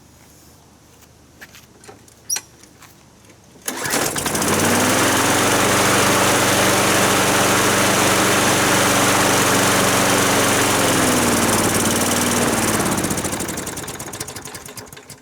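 Lawn mower engine started, catching abruptly a few seconds in and running steadily; near the end its speed sags and it dies away. It will not keep running once taken off choke, which the owner links to the new air filter.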